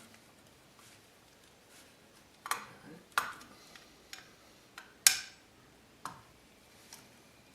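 Irregular sharp clicks and taps of a screwdriver working the cable clamp on an electrical receptacle box, about seven in all, starting a couple of seconds in, the loudest around the middle.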